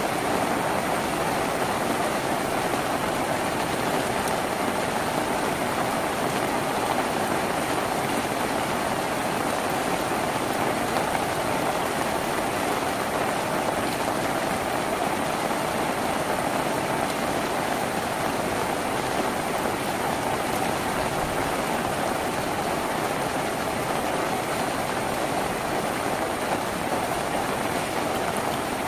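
Steady heavy rain drumming on a tin roof, an even, dense patter that never lets up.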